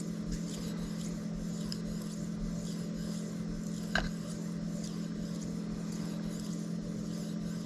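Steel knife blade stroked back and forth across a fine 5000-grit Shapton Kuromaku whetstone: soft, repeated scraping strokes while polishing the edge to a mirror finish. A steady low hum runs underneath, and there is one short click about four seconds in.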